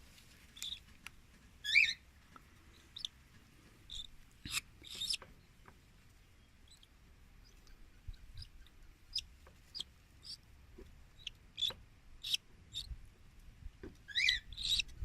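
Cockatiel chick giving short, high food-begging chirps while being syringe-fed hand-feeding formula, a few louder wavering calls among them.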